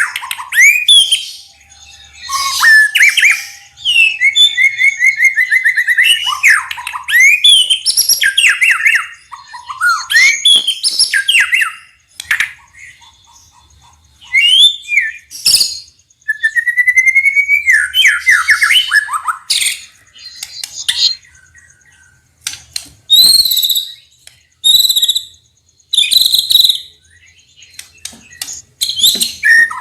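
White-rumped shama singing a loud, varied song of whistled phrases, sliding notes and fast trills, mixed with some harsher, rasping notes. It sings in bursts with a couple of short pauses.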